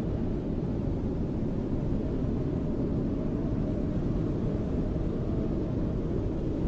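Steady, low rumbling wind of a snowstorm, with no gusts or breaks.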